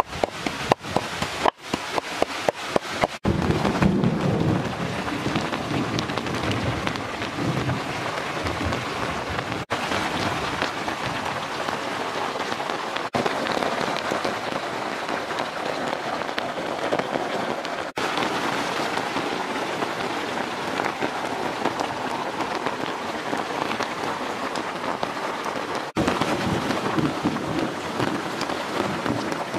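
A pestle pounding salt in a stone mortar, about three sharp knocks a second, for the first three seconds. Then heavy rain falls steadily on leaves and a tarp, with a low rumble of thunder a few seconds in.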